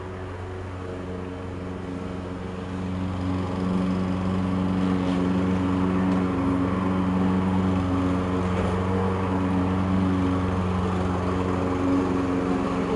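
An engine running steadily with a low, even hum. It grows louder over the first few seconds, then holds at one pitch.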